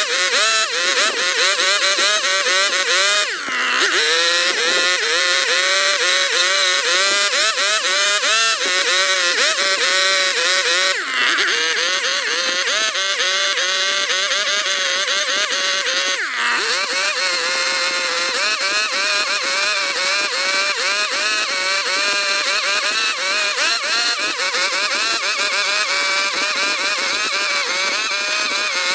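Electric power tool motor cutting into wood, its pitch wavering constantly as it is worked against the piece, with sharp dips in pitch about four times as it bogs under heavier load.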